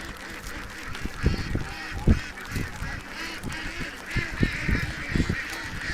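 A large flock of domestic ducks calling all at once, many overlapping quacks in a continuous mass, with a few short low thumps now and then.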